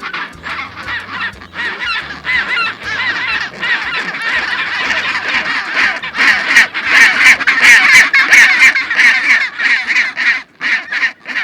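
A crowd of penguins calling: many overlapping, honking calls that build up and are loudest in the second half, then thin out near the end.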